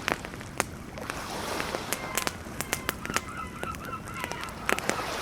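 Campfire crackling, with sharp pops scattered throughout, over a steady rush of ocean surf. A bird calls briefly in a short wavering series about three seconds in.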